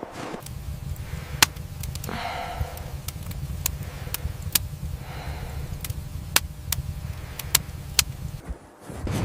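Scattered sharp cracks, about eight of them at irregular intervals, over a steady low rumble.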